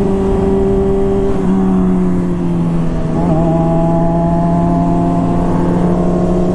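Honda CBR600RR inline-four engine running at steady cruising revs, its pitch dipping slightly a couple of times, with low wind rumble on the helmet microphone.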